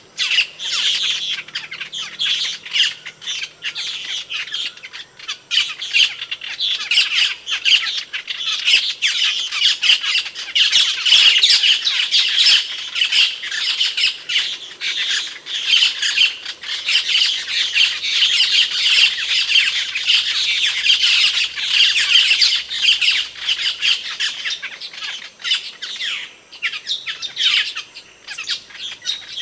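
Asian glossy starling (cucak keling) giving a dense, unbroken stream of sharp, shrill calls and chatter, with many rapid notes.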